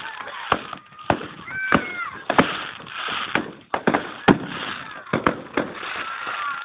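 Fireworks display: aerial shells bursting in the sky, about ten sharp bangs at irregular intervals over a steady hiss.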